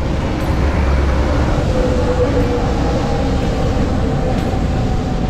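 Steady low rumble of wind and road noise on a bicycle rider's action camera, with a faint drawn-out tone from a passing motor vehicle partway through.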